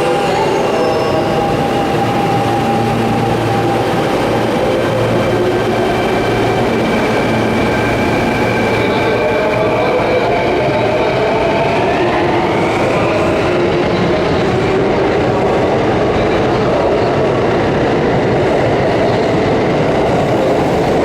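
Electric commuter train running alongside the platform with a steady rumble and electric motor whine. About twelve seconds in, a whine begins rising in pitch, as of the train's motors accelerating.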